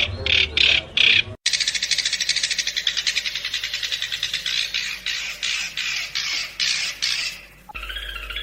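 Long-tailed shrike (cendet) singing a fast, rapid-fire run of sharp repeated notes, broken by a short dropout about a second and a half in. Music takes over near the end.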